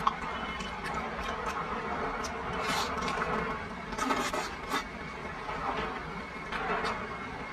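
Close-up eating sounds of braised pork large intestine being bitten and chewed: wet mouth clicks and smacks, with two short noisier bites or sucks about three and four seconds in.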